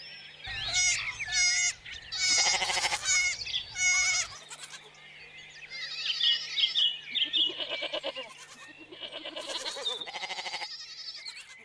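Goats bleating: about half a dozen separate calls one after another, some short and high, others longer with a shaky, wavering sound.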